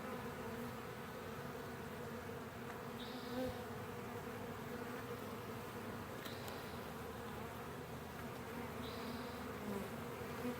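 A swarm of honey bees buzzing in a steady, continuous hum as they crowd at the entrance of a new hive and move in. A faint short high chirp sounds about every three seconds.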